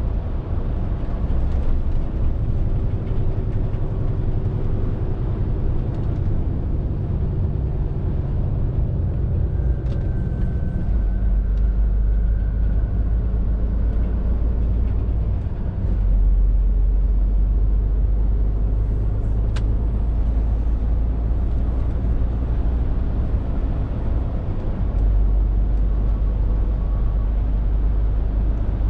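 Scania R450 lorry's 13-litre inline-six diesel running on the road, a steady low rumble that swells and eases a few times as the load changes, with a single sharp click about twenty seconds in.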